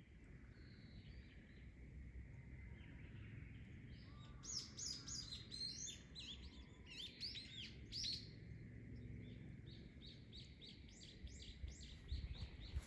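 Small birds chirping: a burst of quick, varied chirps about four seconds in, then a run of short, evenly repeated notes near the end, over faint low background noise.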